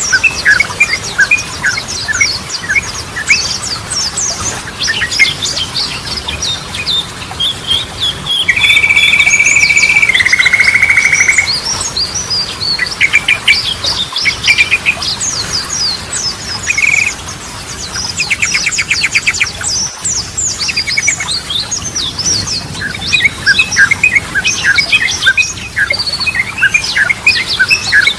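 Yellow-vented bulbul (trucukan) singing: a busy run of short chirps and whistles. About eight seconds in comes a long held note that steps down to a lower one, and a fast trill follows about ten seconds later.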